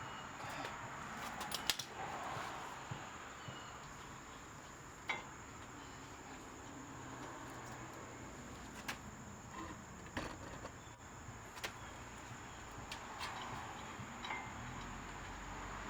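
Scattered light metallic clicks and clinks of tools and brake parts being handled, a few seconds apart, over a steady background hiss.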